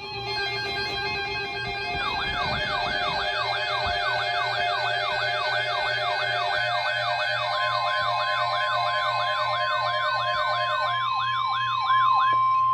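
Electronic siren-like alert sound: a wailing tone sweeping rapidly up and down, about three sweeps a second, over a chord of steady electronic tones. A steady high alert tone joins about halfway through.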